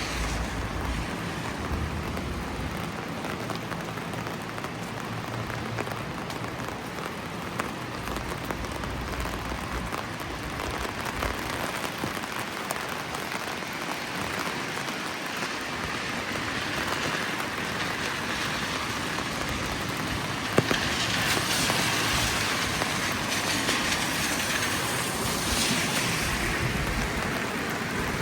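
Steady rain falling on the street, an even hiss. The hiss grows louder in the second half, with one sharp tap about two-thirds of the way through.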